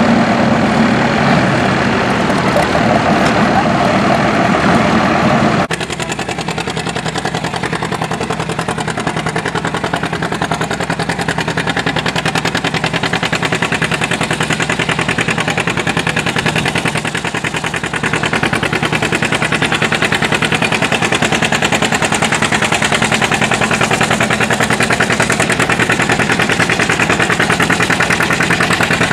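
Antique tractor engine running loud, its exhaust a rapid, even rattle of firing pulses. About six seconds in the sound drops suddenly and changes in tone, then runs on steadily.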